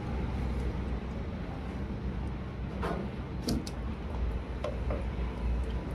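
Steady low hum of running factory machinery, with a few sharp clicks about three and a half seconds in.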